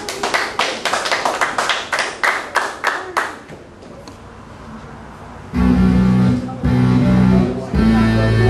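A crowd clapping for about three seconds, then a short lull. About five and a half seconds in, loud entrance music starts, with heavy guitar and bass chords broken by short breaks.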